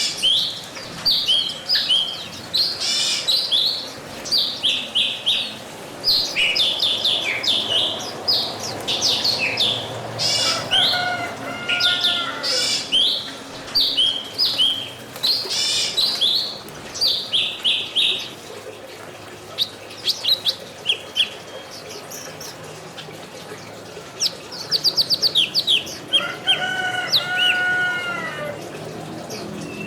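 Small birds chirping and twittering in quick, overlapping short notes, with a fast trill of rapid notes near the end. Twice, once in the middle and once near the end, a lower, fuller bird call of about a second or two sounds beneath the chirping.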